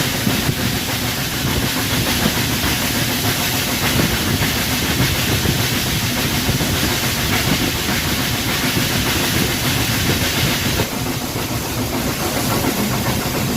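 Train running on the line: a steady low rumble under a loud hiss, and the hiss cuts back sharply about eleven seconds in.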